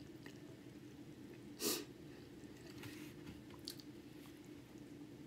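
Close-up chewing of a chili cheese hot dog, soft and wet with a few small mouth clicks, over a low steady hum. About one and a half seconds in comes a short, sharp breath, the loudest sound.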